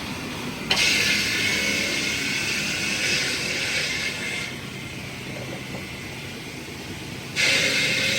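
Heavy machinery running with a steady low rumble. Twice a loud hiss cuts in suddenly and lasts a few seconds, once early and again near the end.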